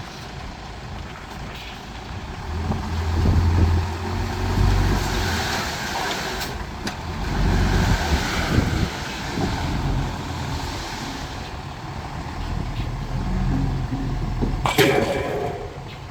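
Heavy diesel machinery, dump trucks and a bulldozer, running and revving, the low engine sound swelling and easing several times. A short, sharp burst of sound comes near the end.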